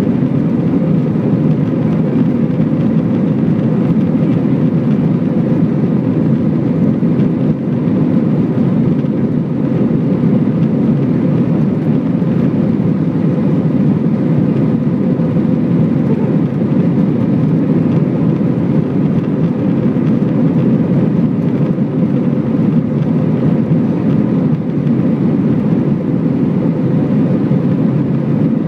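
Jet airliner cabin noise: a steady low rumble of engines and rushing air, with a faint constant hum, unchanging throughout.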